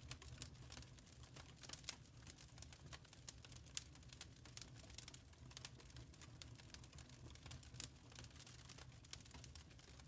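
Wood fire crackling in a fireplace, faint: a steady scatter of small irregular snaps and pops over a low rumble.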